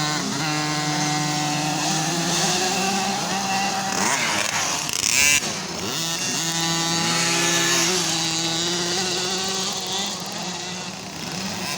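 Motocross motorcycle engines revving hard as the bikes race by. The pitch climbs and drops repeatedly through gear changes, and it is loudest briefly about five seconds in.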